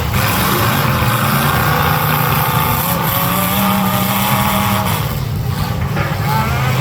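Demolition derby cars' engines running loudly, revving up and down.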